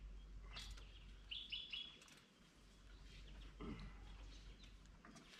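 Near silence, with a bird chirping briefly about a second and a half in and a couple of faint knocks.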